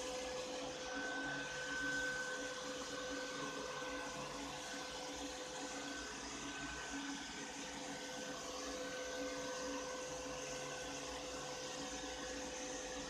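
Ropo Glass robot vacuum cleaner running: a steady motor hum with a faint high whine over the suction noise.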